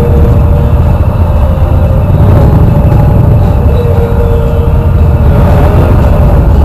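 Motorcycle engines rumbling steadily and loudly.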